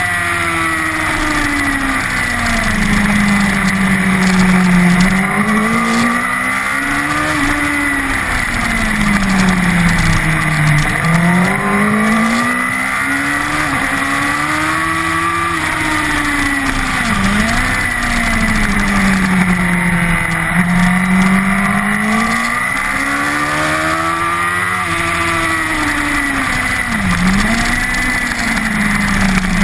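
Honda CBR1000RR superbike's inline-four engine, heard onboard, revving hard and falling back again and again as the bike accelerates and brakes between corners. Quick dips in pitch mark the gear changes.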